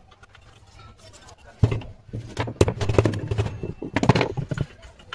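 Irregular knocking and clatter of tools and metal parts being handled during the repair of a marble cutter, loudest from about one and a half seconds in until near the end, with a low hum under it.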